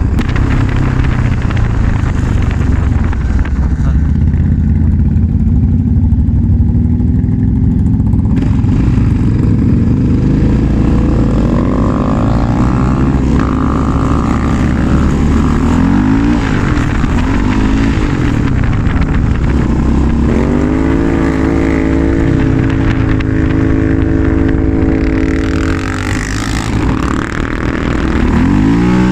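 Quad bike (ATV) engine running under way, its pitch rising and falling several times as the throttle is opened and closed and gears change.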